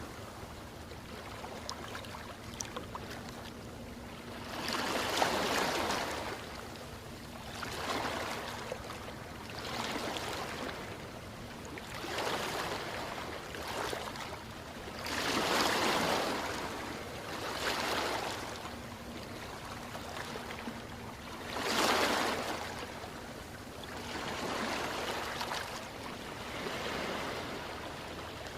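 Ocean surf: waves washing in every couple of seconds, the biggest breaking about five, fifteen and twenty-two seconds in.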